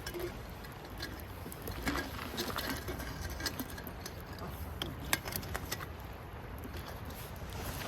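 Wood campfire burning, with scattered sharp crackles and pops over a low steady rumble; one louder pop about five seconds in.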